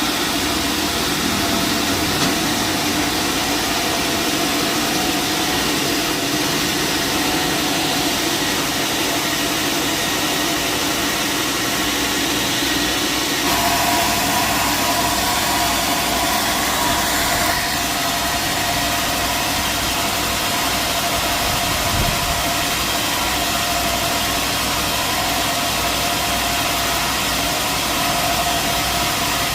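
Sawmill machinery running steadily. About halfway through the sound changes and a steady higher hum comes in and holds.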